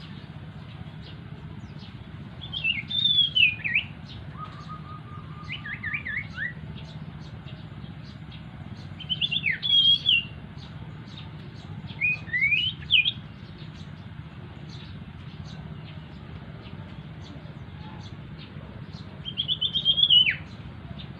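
Songbird known locally as sirtu or cito singing five short phrases of quick, high, slurred notes, several seconds apart; during the second phrase a lower, even trill runs beneath. A steady low hum lies under the song.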